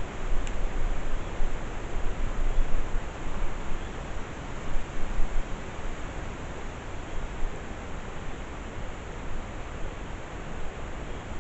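Wind noise on the microphone: a steady rushing hiss over a low rumble that rises and falls.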